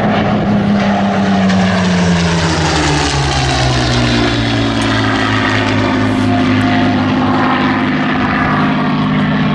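Supermarine Spitfires passing overhead, their Rolls-Royce Merlin V12 engines droning. The engine note drops in pitch over the first few seconds as they go by, then holds steady.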